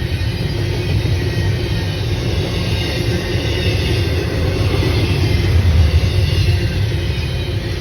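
Train passing, a steady heavy rumble of wheels on rails that swells a little about six seconds in.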